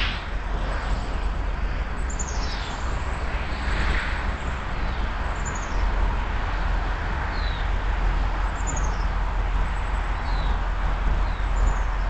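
High, thin bird calls: short strings of notes falling in pitch, heard about four times, over a steady low background rumble.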